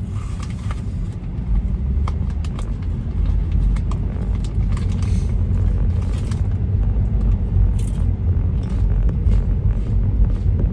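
Road noise inside a moving car: a steady low rumble from tyres and engine, with light ticks and clicks now and then.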